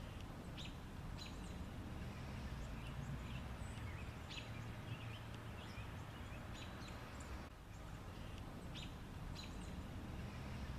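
Faint outdoor background noise with scattered short bird chirps.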